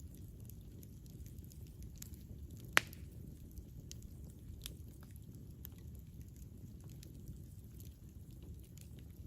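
Campfire burning: a low steady rumble of flames with scattered small wood crackles, and one sharp loud pop about three seconds in.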